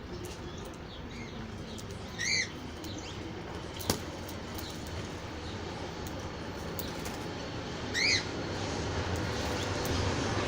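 Birds chirping: two loud, arched chirps, one about two seconds in and another about eight seconds in, with softer chirps between them. A single sharp click sounds just before the middle.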